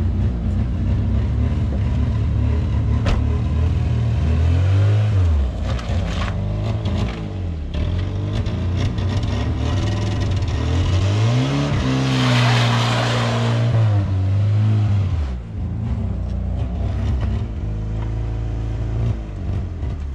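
Suzuki Vitara 4x4's engine being revved hard in mud, rising and falling in pitch several times as the driver works the throttle. The biggest rev comes in the middle and carries a rush of hissing noise, then the engine settles to a steadier pitch near the end.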